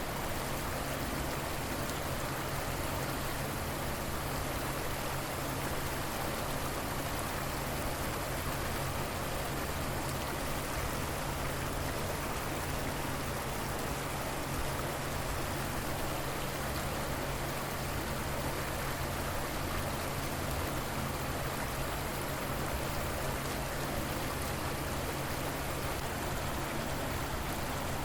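A river or stream flowing with a steady, even rush of water.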